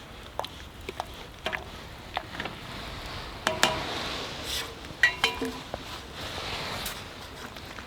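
Metal utensils clinking and scraping against dishes and pans as food is served out, with the loudest ringing clinks about three and a half seconds and five seconds in.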